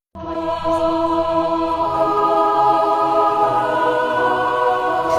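A choir singing one long held chord, starting suddenly after a brief silence.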